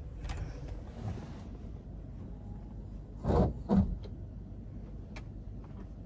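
Two dull thuds about half a second apart, over a low steady rumble.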